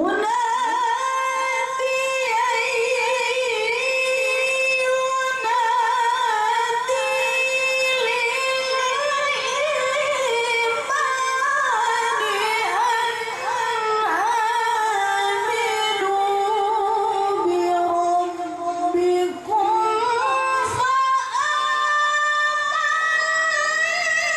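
A woman's high voice chanting Quran recitation (tilawah) in long, ornamented melodic lines, sinking lower about three quarters of the way through and climbing high again near the end.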